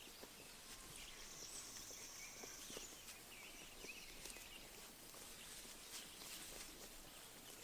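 Faint pasture ambience: small birds chirping here and there, with a high buzzing trill about a second in, over soft ticks and rustles of sheep grazing.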